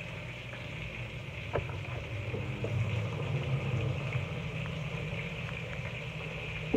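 Breaded chicken cutlets sizzling in hot oil in a skillet, a steady frying hiss with a few light clicks. A louder low rumble runs underneath. The sizzle cuts off suddenly near the end.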